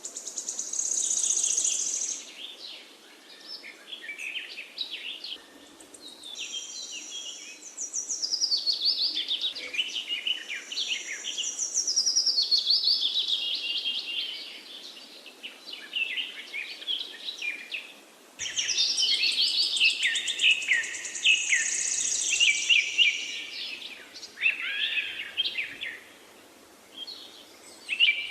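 Several songbirds singing and chirping in overlapping, high-pitched phrases of rapid trills and quick notes, with short breaks between songs over a faint steady hiss.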